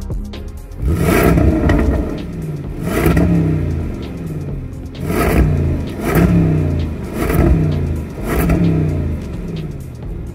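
Land Rover Defender 90 V8 on its stock exhaust, revved in about six short blips from idle, each rising in pitch and falling back.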